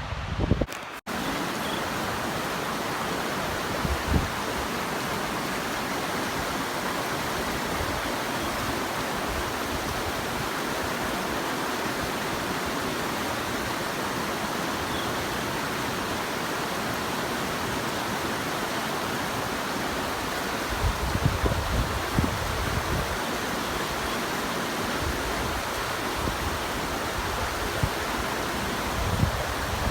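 Steady rush of fast-flowing water, with low gusts of wind buffeting the microphone from about two-thirds of the way in.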